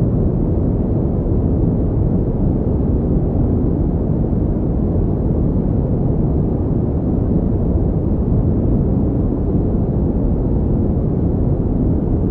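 Steady pink noise: an unbroken, even rushing hiss with most of its weight in the low end, unchanging throughout.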